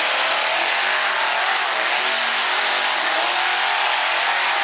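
Monster truck engine running hard, loud and unbroken, its pitch wavering up and down as the throttle is worked.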